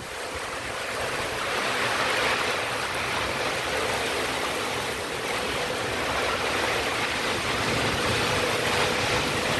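Heavy rain pouring down steadily, a dense even hiss that builds a little over the first two seconds and then holds.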